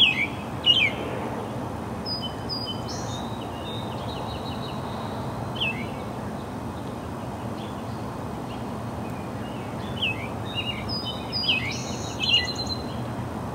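Birds chirping: short falling chirps and a few higher notes with a brief trill, coming at the start, a few times in the middle, and in a flurry about ten seconds in, over a steady background noise.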